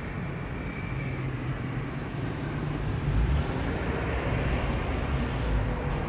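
A motor vehicle running: a steady low engine and road hum that grows a little louder about halfway through.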